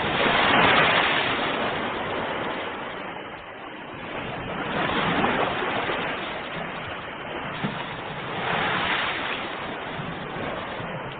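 Ocean surf: waves washing in with a steady rush, swelling louder three times, about four seconds apart.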